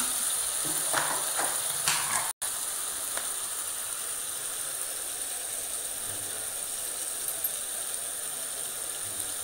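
Masala sizzling in a steel kadai, with a metal spatula scraping and tapping the pan a few times in the first two seconds. After that a steady sizzle continues.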